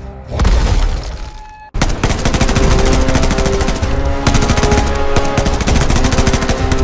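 Dramatic soundtrack music: a deep booming hit that fades out, a moment's dead silence, then held chords over a rapid, rattling stream of sharp hits like machine-gun fire.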